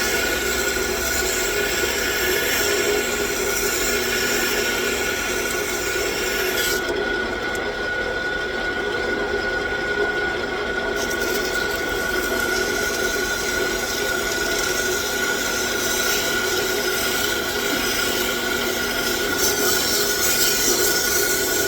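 A 9x20 gear-head engine lathe running with a steady whine while aluminum oxide abrasive rubs on the spinning workpiece, a continuous scratchy hiss. The rubbing drops away for about four seconds around seven seconds in, then starts again.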